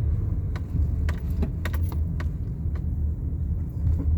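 Car driving slowly, heard from inside the cabin: a steady low rumble of engine and road, with a few scattered clicks and rattles.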